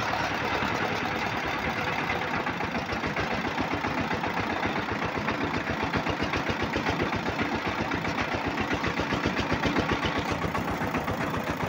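Single-cylinder Changfa-type diesel engine of a bhutbhuti motor van running steadily, a fast, even chugging beat.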